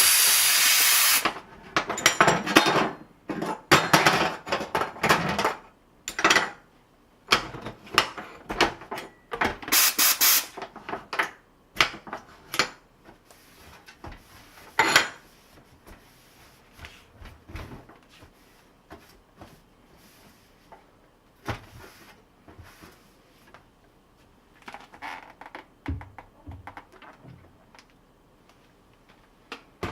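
Short hissing jets of steam from a handheld steam cleaner: a loud one-second blast at the start and a shorter one about ten seconds in. Between them come scattered clicks, knocks and rubbing of things being handled and scrubbed.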